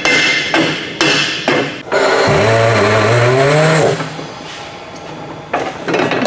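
Tire-shop work: several sharp knocks in the first couple of seconds, then a power tool running loudly for about two seconds with a rising pitch.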